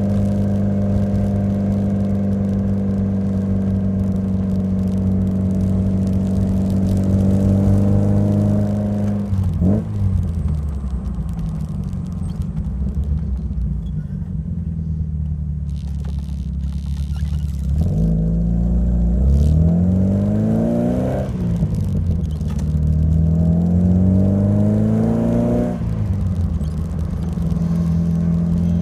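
Alfa Romeo Alfasud Sprint QV's 1.5-litre flat-four boxer engine running through its stainless steel exhaust. It holds a steady note, drops away about nine seconds in and runs low and even. From about eighteen seconds it revs up twice, quickly and then more slowly, before settling to a steady, higher note.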